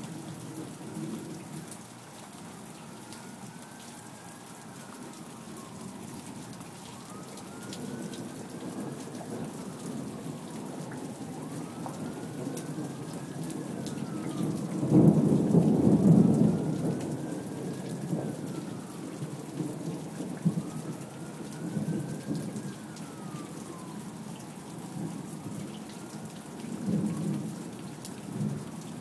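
Rain falling steadily with low rumbles of thunder, and a louder roll of thunder about halfway through. A faint tone rises and falls about every four seconds.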